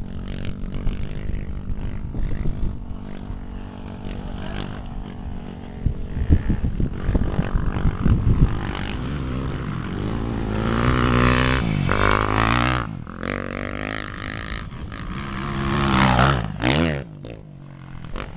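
Off-road racing engines running and revving up and down, with sweeping pitch changes a little past halfway and a sharp rise and fall near the end, where it is loudest.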